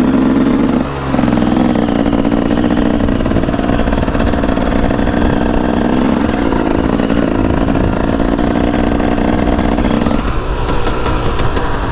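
KTM 300 EXC two-stroke dirt bike engine running steadily under throttle. Its note dips briefly about a second in and drops off near the end as the throttle is eased.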